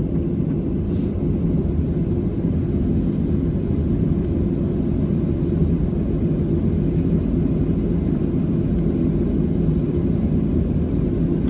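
Steady low rumble of cabin noise inside a Boeing 737-700 airliner.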